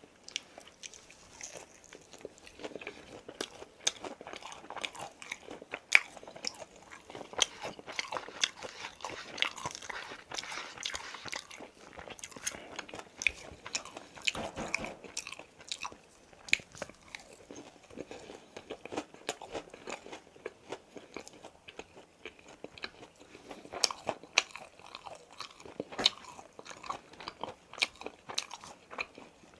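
Close-up crunching and chewing of crisp boneless fried chicken: irregular sharp crunches as the coating breaks between the teeth, with wetter chewing between bites.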